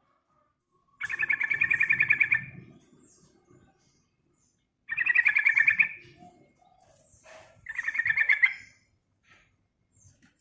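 Yellow-vented bulbul calling in three bursts of fast chattering, each a rapid run of repeated notes lasting about one to one and a half seconds.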